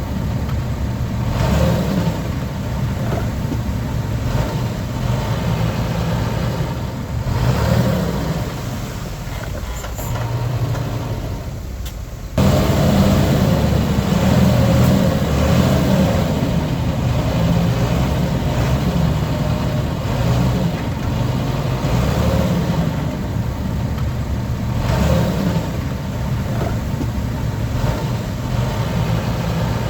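Heavy diesel engine of earthmoving machinery running and working, its level rising and falling. About twelve seconds in it jumps suddenly louder.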